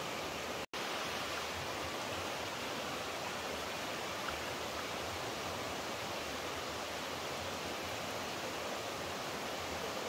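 Steady rushing of flowing water, like a stream or small waterfall, an even hiss without pauses. It cuts out completely for an instant a little under a second in.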